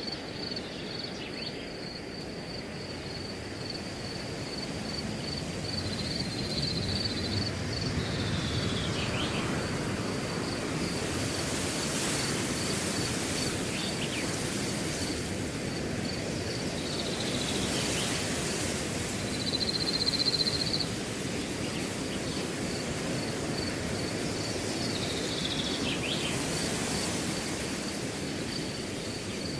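Wind blowing through a grass field, rising in gusts and easing off, with the grass hissing at the peaks. A cricket chirps steadily in a high, even pulse throughout, and a few short whistles slide downward in pitch.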